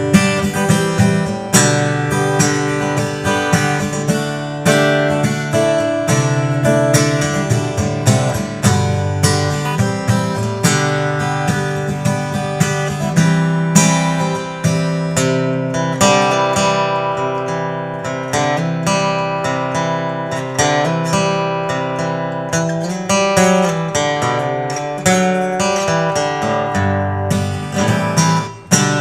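1993 Takamine Santa Fe acoustic guitar played as a sound test: strummed and picked chords, changing every second or two.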